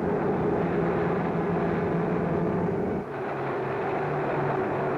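Streamlined passenger train running at speed: a steady rumble with steady tones held over it, which changes abruptly about three seconds in.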